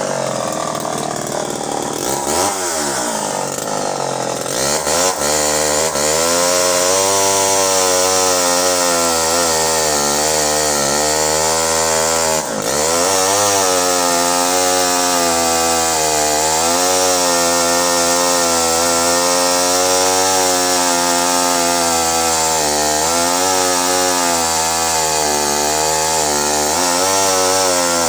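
Vintage Pioneer 1200 58cc two-stroke chainsaw running hard, cutting through larch. Its engine note swoops in the first few seconds, then holds high and wavers as the chain loads up in the wood, with one sharp brief dip about halfway through.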